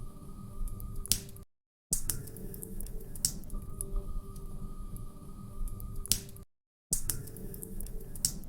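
Log fire crackling: scattered sharp pops and snaps over a low, steady rumble. The sound cuts out to silence briefly twice, at about a second and a half in and again near six and a half seconds, as if a short recording is being looped.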